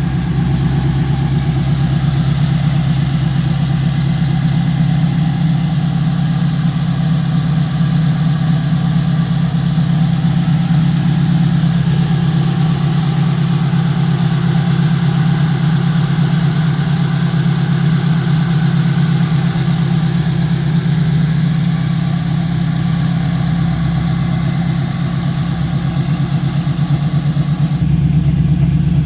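A 1968 Chevrolet Camaro's engine idling steadily, a little louder near the end.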